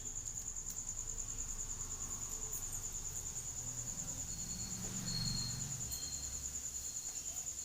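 A cricket chirping steadily, a high, thin trill of rapid, even pulses that keeps going throughout.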